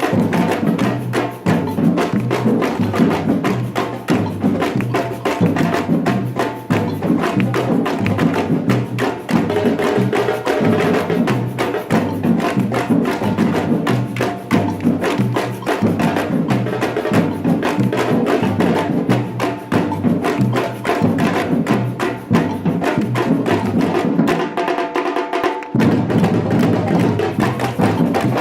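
Batucada samba percussion band playing a dense, steady drum groove. Near the end the low drums drop out for about a second and a half, then the full band comes back in.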